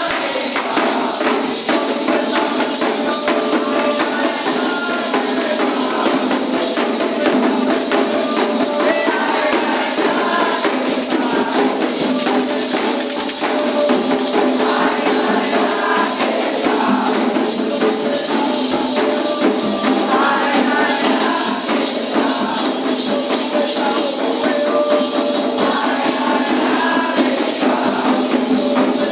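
Candomblé ritual music: voices chanting over steady, dense jingling and rattling percussion.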